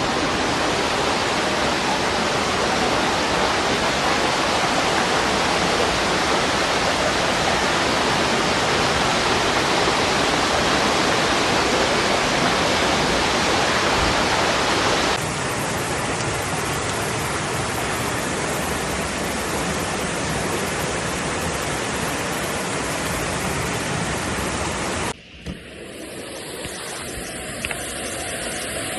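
Floodwater rushing in a loud, steady torrent. The sound changes abruptly about halfway through, drops out briefly near the end, and returns quieter.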